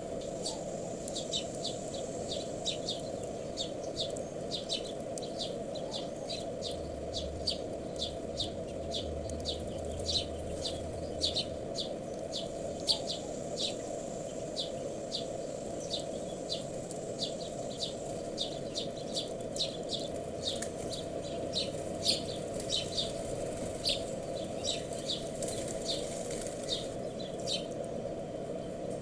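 Small wild birds chirping: short, high chirps repeated about once or twice a second, over steady low background noise.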